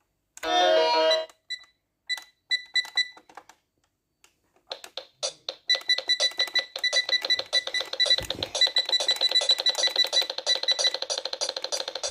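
Piano keys played loudly: a crashing handful of notes together at the start, a few single notes, then from about five seconds in a fast, continuous run of rapidly struck notes.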